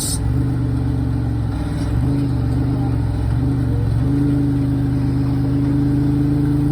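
Jeep engine pulling under load at crawling speed off-road. The revs rise and dip for the first few seconds, then hold steady at a higher pitch from about four seconds in.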